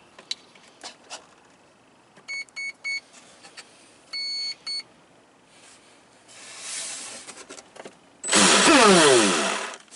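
A few clicks, then the electric boat's speed controller sounding its arming beeps: three short high beeps, then a longer beep and a short one, as a fresh battery is connected. Near the end the boat's electric motor and propeller rev up loudly for about a second and a half, the pitch sweeping down and up.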